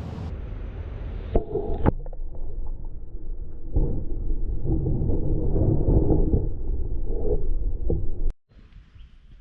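Wind buffeting the microphone, a loud uneven low rumble across a few edited-together shots, cutting off abruptly about eight seconds in to a faint background.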